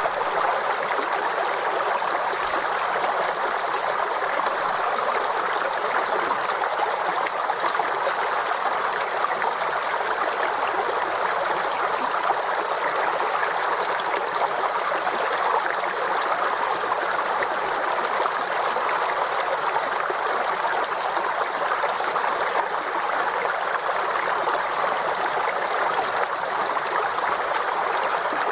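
Forest stream running steadily over rocks: continuous babbling and trickling water with no change in level.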